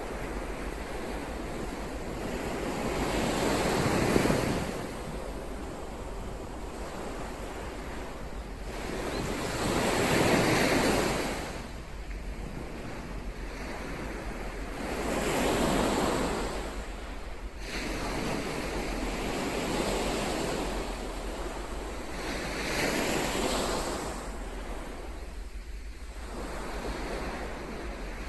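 Ocean surf: five waves surge and break in turn, a few seconds apart, over a steady rushing wash of water.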